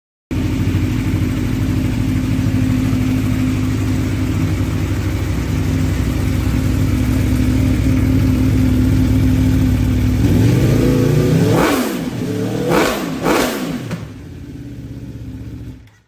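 Aprilia Tuono V4 Factory's V4 engine idling steadily through its Aprilia exhaust, then revved once after about ten seconds and blipped twice in quick succession before dropping back to a quieter idle.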